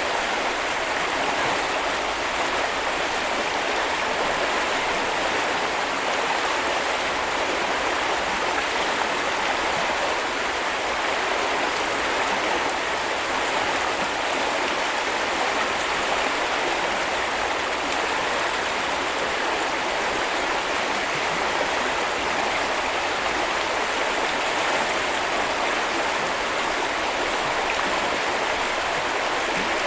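River water flowing steadily, an even rushing of the stream with no breaks or changes.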